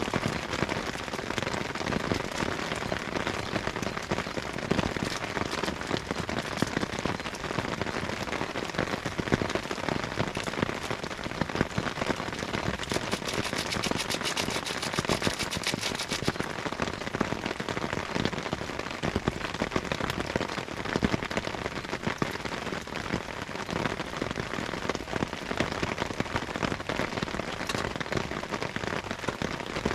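Steady rain falling, a dense continuous spatter of many small drops. About halfway through, a faint fast ticking joins it for a few seconds.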